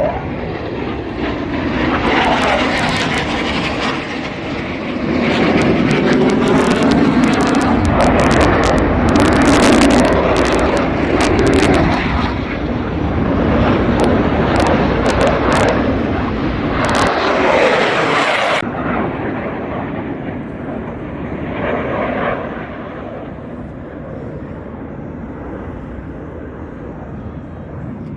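Blue Angels jet aircraft passing overhead: a loud jet roar that builds over the first few seconds, stays loud for about a dozen seconds with a sweeping, phasing rise and fall in pitch as the jets pass, then drops off suddenly and fades to a lower steady rumble.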